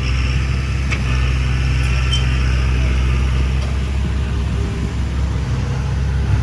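Heavy diesel earthmoving machinery, a bulldozer or dump truck, with its engine running steadily in a low hum. There are a couple of light clicks about a second and two seconds in.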